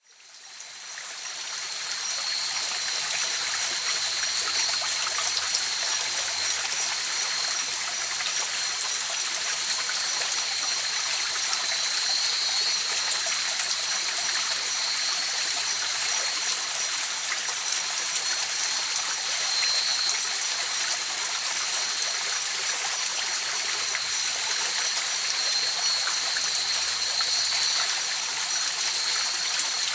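River water flowing in a steady, even rush, fading in over the first couple of seconds, with a thin, steady high-pitched tone held above it.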